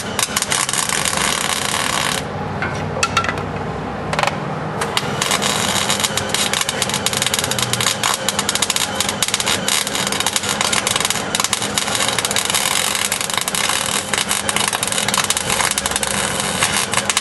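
Wire-feed (MIG) welder crackling as it lays welds on a steel patch panel in a pickup cab corner, stopping for about two seconds early on and then welding on steadily.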